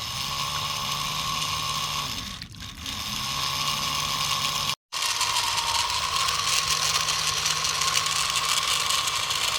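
A small geared motor running steadily with a high whine, cut off for an instant about halfway through.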